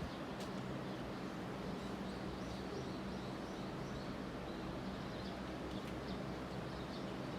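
Outdoor ambience: small birds chirping faintly and repeatedly over a steady low hum.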